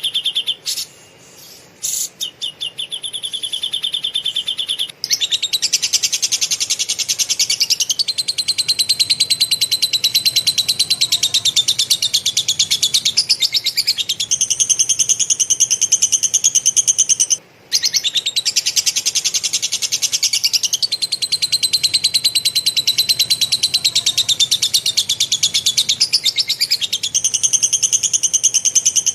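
A songbird gives long, very rapid, chattering trills, each run lasting several seconds, with the pitch stepping between a few levels. This is lovebird-style 'ngekek' material of the kind used to tutor cage birds. There are short breaks about five seconds in and again past the middle.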